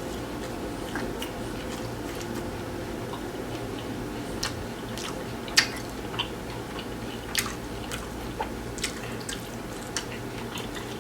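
Close-miked chewing of a crunchy hard-shell taco: scattered sharp, wet mouth clicks at an irregular pace over a steady low background hum.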